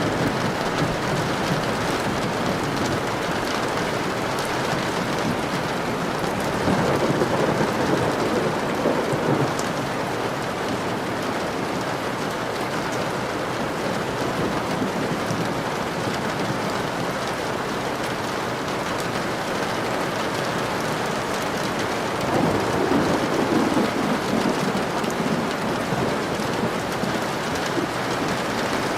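Steady rain falling in a thunderstorm, with two rolls of thunder, one about seven seconds in and another a little past twenty seconds.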